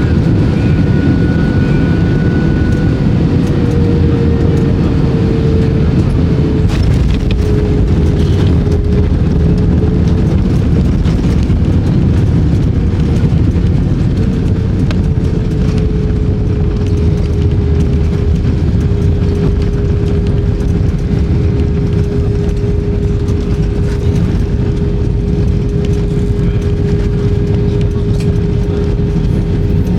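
Airbus A320 cabin noise on the ground after landing: a steady heavy rumble of the engines and rolling gear with a steady engine whine that drops a little in pitch several seconds in and then holds.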